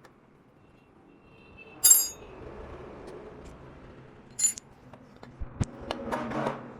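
Two sharp, ringing clinks of hard objects knocking together, the first about two seconds in and louder, the second about two and a half seconds later, then a quick run of clicks and handling clatter near the end.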